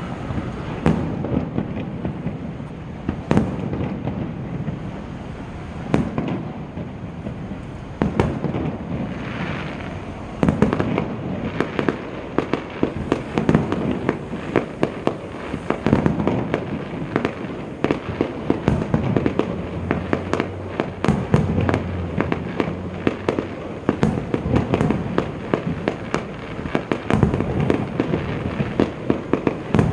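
Fireworks display heard from a distance: shells bursting in a steady stream of low, echoing bangs mixed with sharp pops and crackling, the crackle growing denser in the second half.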